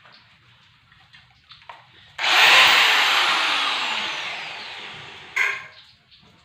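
Electric angle grinder switched on about two seconds in: it starts loud and then winds down over about three seconds, its pitch falling as the disc coasts to a stop, with a short sharp burst just before it dies away.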